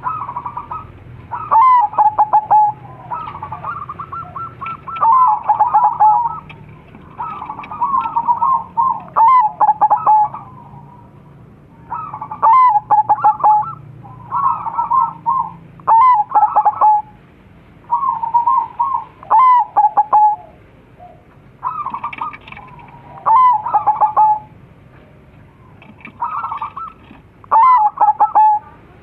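Crossbred zebra doves (perkutut) cooing: phrases of quick, rolling coo notes with sharp upward flicks, repeated every two to four seconds.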